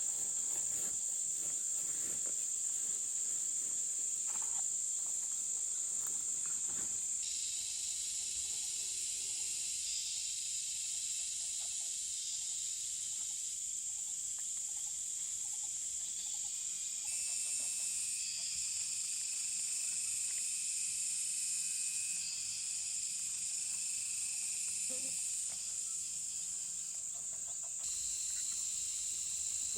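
Steady, high-pitched chorus of insects (crickets or cicadas), with other high-pitched insect calls joining and dropping out every few seconds.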